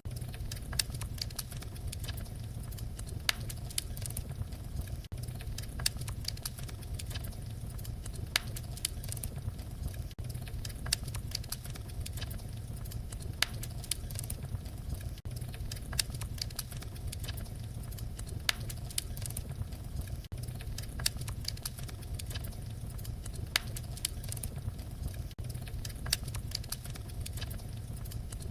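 Wood fire crackling: a steady low rumble with frequent, irregular sharp pops and snaps.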